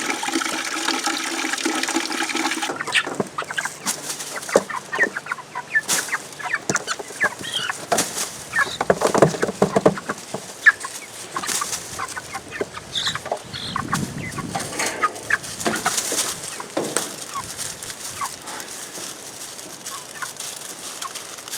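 Cornish cross meat chickens clucking and calling while being handled, with scattered knocks and rustles. A held call sounds over the first few seconds.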